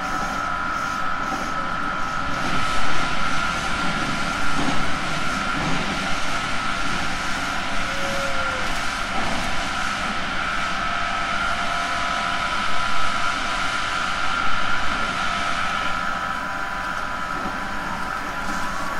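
Onboard running noise of a JR Central 311 series electric train: a steady rolling rumble with a constant whine, and a few louder knocks of the wheels over rail joints.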